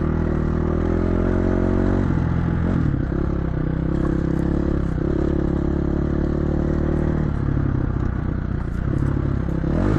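Dirt bike engine running at a steady pace on an off-road trail, the throttle easing and picking up again a few times, with clattering over the rough ground.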